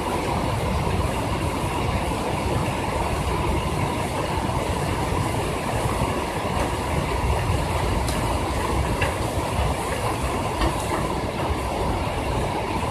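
Heavy rain falling, its drops clattering on a window ledge and on the body of the phone recording it: a steady dense clatter with a few sharper single drop taps.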